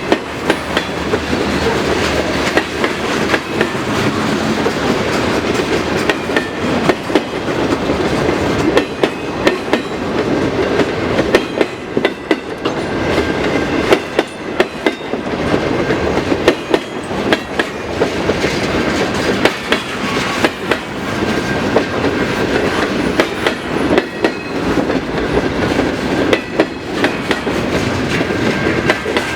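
Freight cars of a slow-moving manifest train rolling past, with the steady rumble of wheels on rail and irregular clicks and clunks as the wheels pass over rail joints.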